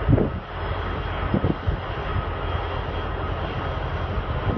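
Steady rumble of a moving train: Union Pacific Big Boy 4014 steam locomotive with a diesel, heard through a phone microphone. Two short louder knocks come near the start and about a second and a half in.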